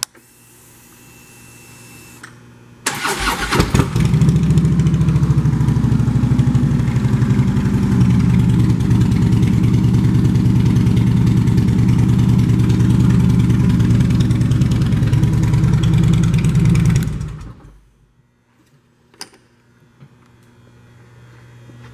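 Harley-Davidson Electra Glide Classic V-twin engine with Vance & Hines exhaust pipes cranked over by the starter about three seconds in, firing up and idling steadily for about thirteen seconds, then shut off.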